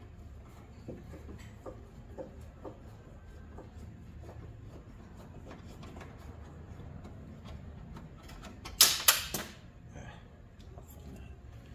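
Small clicks and taps of a Phillips screwdriver working the grille screws out, over a low steady rumble. About nine seconds in come two loud sharp clatters.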